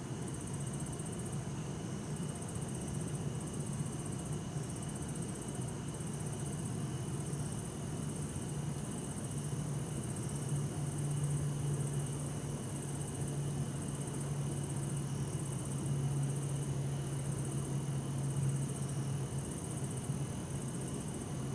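Bell crickets (suzumushi) chirping in short repeated high trills, over a steady low hum of distant city traffic that swells a little midway.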